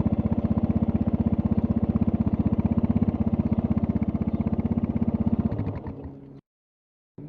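Suzuki DR650's single-cylinder four-stroke engine idling with an even, rapid beat. About five and a half seconds in it is switched off, its firing slowing and dying out.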